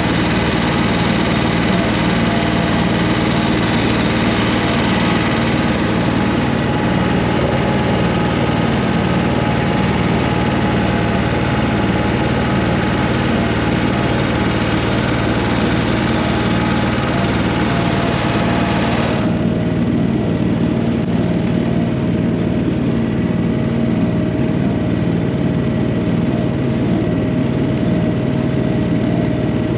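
1985 John Deere 1050 tractor's diesel engine running steadily, warming up after a cold start. About nineteen seconds in the sound suddenly turns duller, losing its upper hiss, while the engine note runs on.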